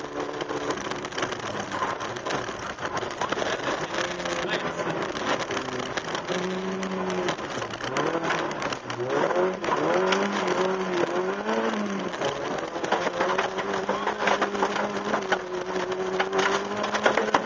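Opel Astra GSi rally car driven flat out on a special stage, heard from inside the cabin: the engine's revs climb and drop several times around the middle of the stretch, then hold a steady high note, over constant road and tyre noise.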